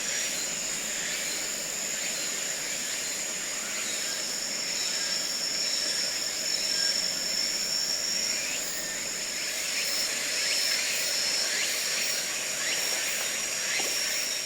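Forest ambience of singing insects in a continuous, high-pitched steady trill, with scattered short chirps over it.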